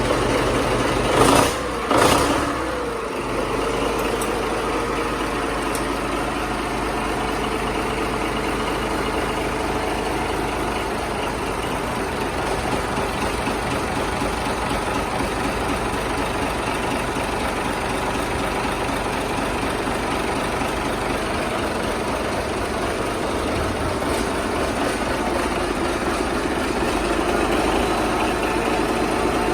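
Yanmar S165L-ST marine diesel engine running steadily, with two loud short noisy bursts about a second and two seconds in. Its sound rises a little near the end.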